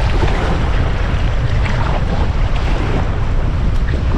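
Strong wind buffeting the microphone over choppy lake water washing around a canoe in rough swells.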